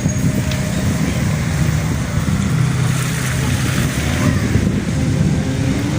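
Steady car engine hum and road noise, heard from inside a moving vehicle.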